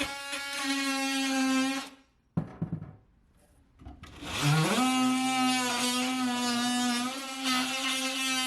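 Power drill/driver motor running at a steady speed, stopping about two seconds in, followed by a few light clicks. About four seconds in it starts again, its whine rising in pitch as it spins up, then runs steadily.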